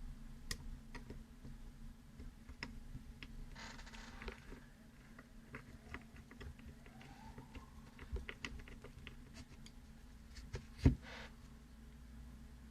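Scattered small clicks and taps of a folding knife's parts and small tools being handled on a workbench, with a short hiss about four seconds in and one sharper knock near the end.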